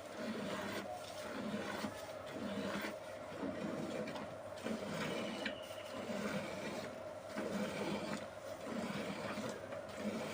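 A cow being milked: milk squirting into a pail in a steady rhythm, a pulse about once a second.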